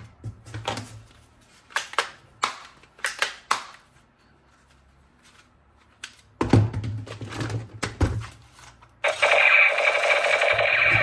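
Plastic and mechanical clicks and knocks of toy guns being handled, in two clusters with a pause between. Near the end a steady rapid rattle starts and runs for about three seconds.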